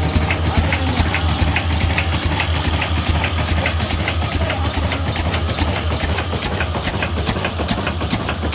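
Old black diesel engine running steadily at idle, with a regular clatter of about four to five knocks a second over its deep hum.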